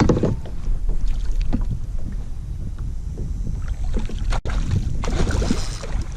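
Outdoor sound from a kayak on open water: wind rumbling on the camera microphone, with water splashing against the hull and scattered small knocks. A louder splashing hiss comes in near the end.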